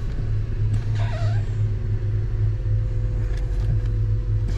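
Car engine idling steadily, heard from the driver's footwell as a low hum. About a second in comes a brief faint wavering squeak from the brake pedal bushing as the pedal is released; the squeak is fading now that the bushing has been lubricated.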